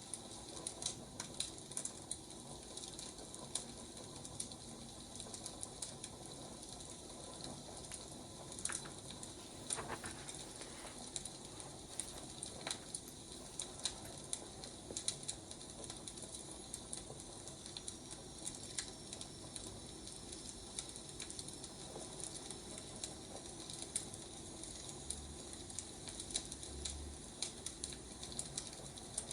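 Wood fire crackling steadily, with frequent irregular small pops and snaps over a soft hiss.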